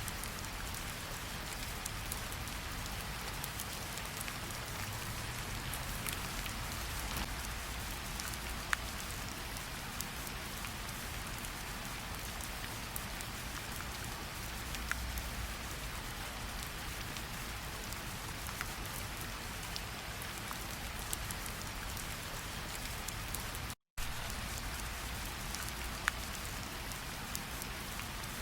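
Steady rainfall, an even hiss with scattered louder individual drops. A split-second dropout to silence near the end.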